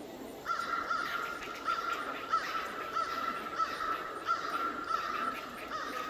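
A bird calling over and over, short arching calls about two a second over a steady high tone, starting about half a second in.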